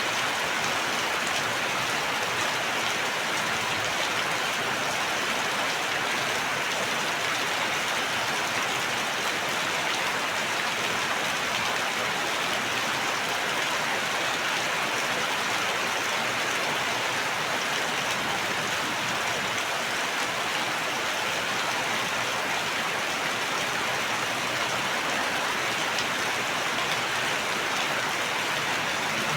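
Steady, even rain falling, a continuous hiss of drops with no breaks or changes in strength.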